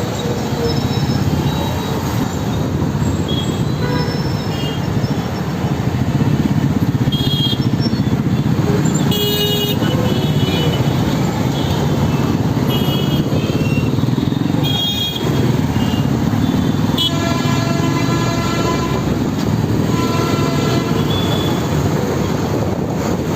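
Motorbike ride through city traffic: steady engine and road noise, with other vehicles' horns honking several times, mostly short toots and one longer blast of about two seconds after the middle.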